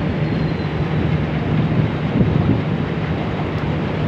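Railway coach wheels running steadily through floodwater covering the track: a continuous low rumble with water splashing and wind on the microphone.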